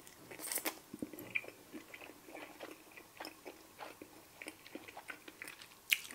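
Close-up biting and chewing of a crispy-coated air-fried chicken drumstick: a run of short crunches and crackles from the coating, with one sharper crunch near the end.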